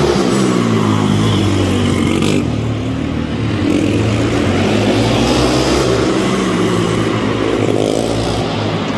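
Pit bike's small single-cylinder engine revving up and down under riding, its pitch rising and falling repeatedly.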